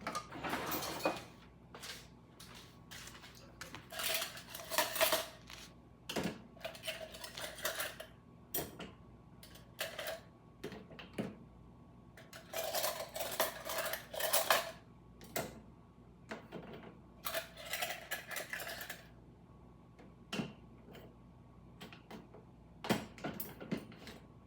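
Dishes and cutlery clinking and clattering as a dishwasher is unloaded, in irregular bursts of handling with short gaps between, some clinks ringing briefly.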